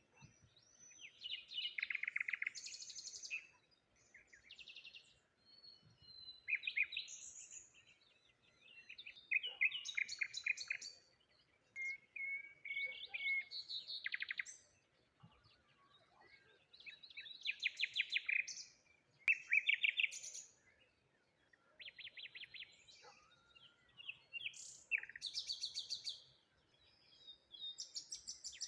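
Songbirds singing: short phrases of rapid, high chirping notes and trills, repeating every two to three seconds.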